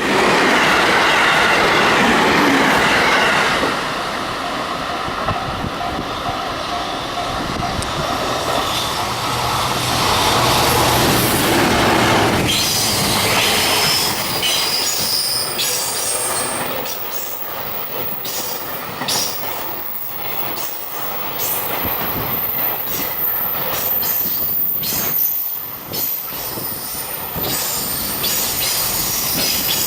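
Freight train hauled by an EF210 electric locomotive passing at speed, loudest in the first four seconds. The long string of freight wagons then rolls by with a steady rumble, regular clacking of wheels over rail joints and a thin high squeal.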